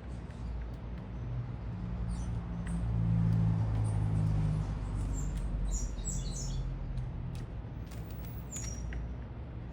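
Small birds chirping in a few quick high calls, over a steady low city rumble that swells about three seconds in.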